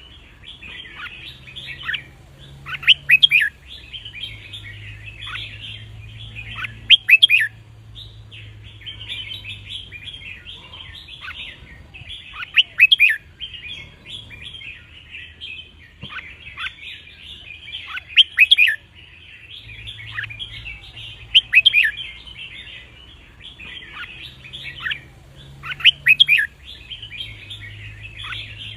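Red-whiskered bulbul song: steady twittering chatter broken every few seconds by loud, short, sharp song phrases.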